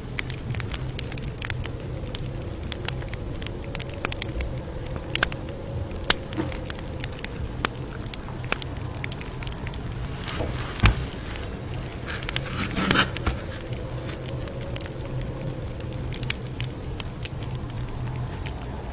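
Campfire crackling: irregular sharp pops and snaps over a steady low rumble of flames, with one louder pop about 11 seconds in and a brief rustling burst around 13 seconds.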